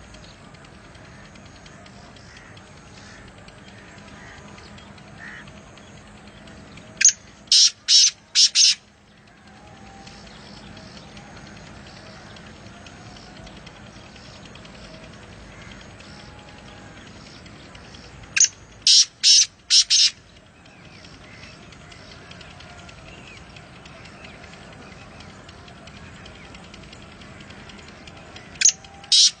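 A bird gives loud groups of four quick, harsh calls, three times about eleven seconds apart, over a steady background hiss.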